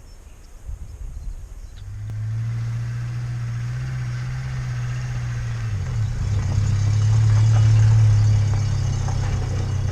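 A motor vehicle's engine running steadily, coming in about two seconds in; its pitch shifts slightly about six seconds in and it grows louder for a couple of seconds after.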